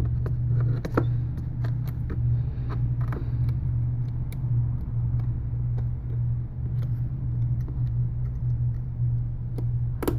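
A steady low hum under scattered light clicks and taps of small repair tools as the LCD flex cable is seated on its connector on an iPad mini 3's board.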